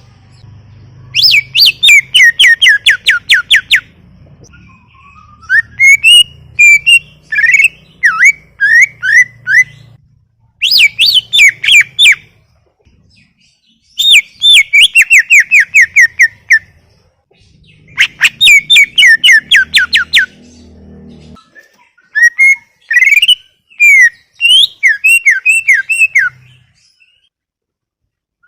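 Greater green leafbird (cucak ijo) in full, vigorous song. Loud phrases of quick repeated down-slurred whistles alternate with phrases of varied warbling notes, each lasting two to four seconds with short pauses between.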